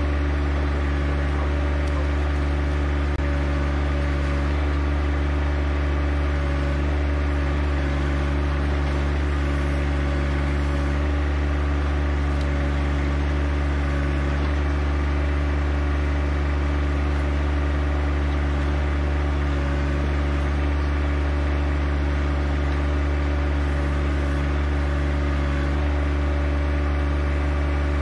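John Deere 1025R compact tractor's three-cylinder diesel engine running at a steady speed, a constant low drone that does not change in pitch.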